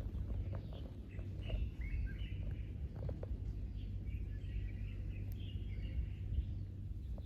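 Small birds chirping and twittering over a steady low rumble of outdoor background noise, with a few faint clicks in the first half.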